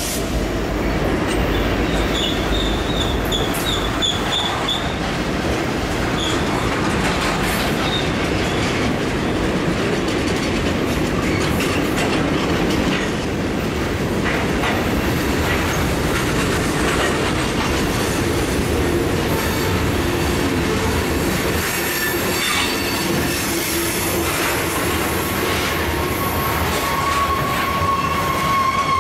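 Freight cars of a Norfolk Southern train rolling steadily past on curved track, the wheels clattering over the rails. A high wheel squeal sounds briefly a couple of seconds in, and a steady squeal sets in near the end.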